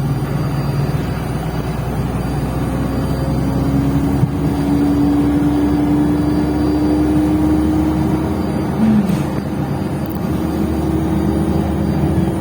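Inside a MAZ-105.065 articulated city bus under way: the engine and drivetrain run with a whine that rises slowly in pitch as the bus gathers speed. A short knock comes about four seconds in.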